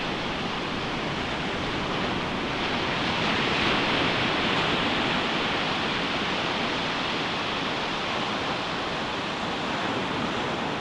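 Ocean surf washing onto a beach: a continuous hiss of waves, swelling as a wave breaks about three to four seconds in, then easing back.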